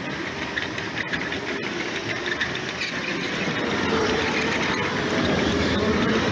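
LEGO train running on plastic track: a steady rattle and clicking of the wheels with a faint whine from its electric motor.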